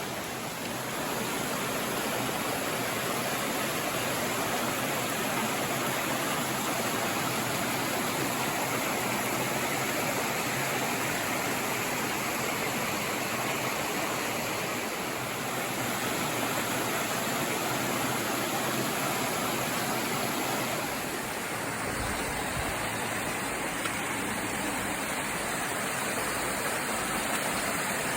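Waterfall rushing: a steady hiss of falling water. Its tone shifts slightly a little over three-quarters of the way through.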